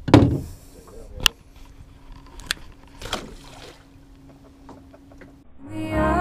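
A few sharp knocks and clicks on a small boat over faint background, the loudest right at the start and about a second in; background music comes in near the end.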